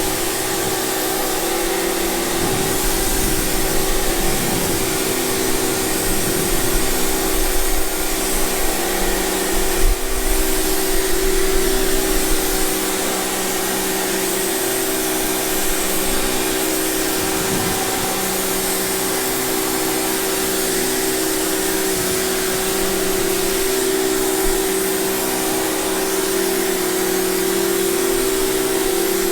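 A motor-driven cleaning machine running steadily: a constant motor hum over a high hiss, a little louder and rougher for a stretch near the start.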